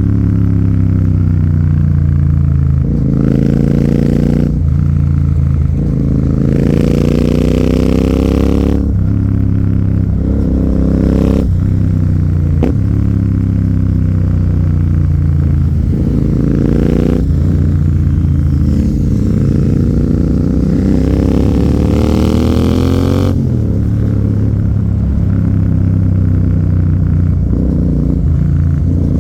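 Royal Enfield Continental GT 650's parallel-twin engine running through an AEW 103 aftermarket exhaust, accelerating hard several times. Each pull rises in pitch and drops sharply at the gear change, and the longest pull comes in the second half.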